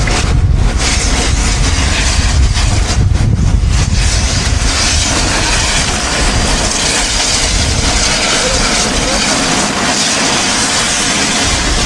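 Steam train running close by: a loud, steady rushing noise. A heavy rumble in the first half gives way to a stronger hiss in the second.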